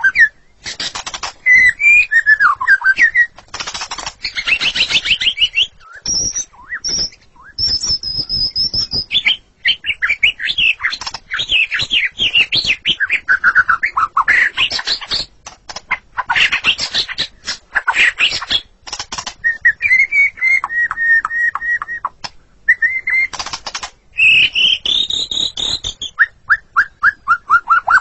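White-rumped shama singing continuously: varied whistled phrases with sliding notes, mixed with fast runs of harsh, sharp chattering notes.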